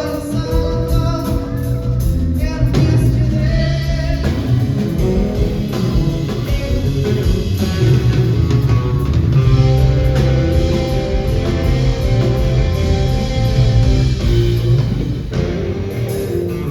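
Live rock band playing blues-rock: electric guitar lines over bass and a drum kit, loud and continuous.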